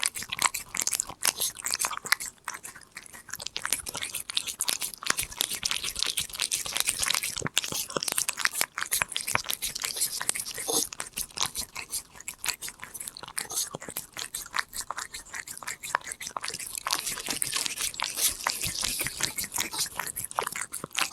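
Korean shorthair cat chewing treats close up: rapid, continuous crunching and mouth clicks as it bites and chews.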